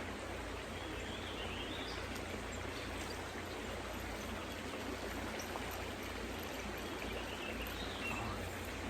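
Small creek flowing over rocks: a steady rush of water. A faint high chirp is heard twice.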